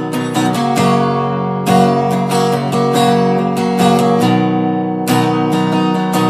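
Strummed acoustic guitar playing chords in the instrumental break between sung lines of a country song.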